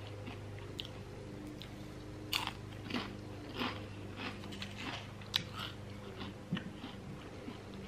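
Close-up eating sounds of a person biting into and chewing a chicken salad wrap, with the crisp chopped salad crunching. The sound comes as a string of short crunches, starting about two seconds in.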